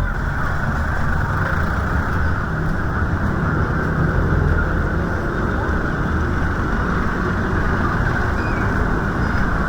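Steady rushing noise of a rainy city street, an even wash of sound with no distinct events.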